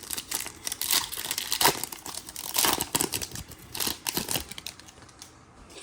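Crinkling of a foil trading-card pack wrapper as it is handled and torn, a dense run of irregular rustles that thins out near the end.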